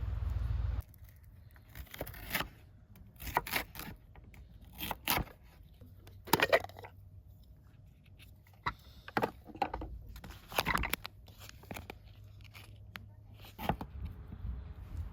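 Irregular handling noises: about a dozen separate short clicks, scrapes and rustles of objects being picked up and set down, after a low rumble that cuts off just under a second in.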